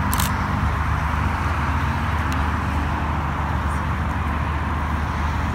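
Nissan GT-R's twin-turbo V6 running at low revs as the car creeps forward, a steady low rumble. There is a brief click just after the start.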